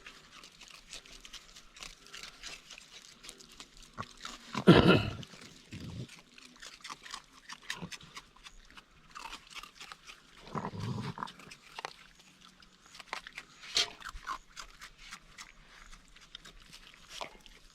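Raccoons crunching dry food such as Fruit Loops and cat food, a steady patter of small crunches. A short, loud animal call stands out about five seconds in, with a softer, lower one around eleven seconds.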